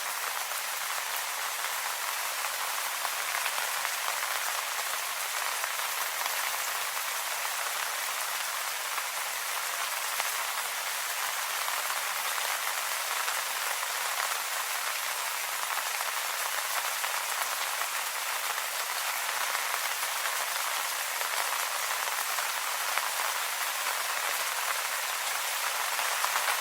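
Steady rain falling on leaves, an even patter of many small drops with a high, hissy character and little low end.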